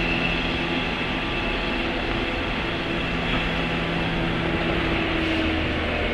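Running sound heard inside a JR West 103 series motor car (MoHa 102): the MT55 traction motors hum with a few steady tones over the rumble of wheels on rail, one tone swelling a little near the end.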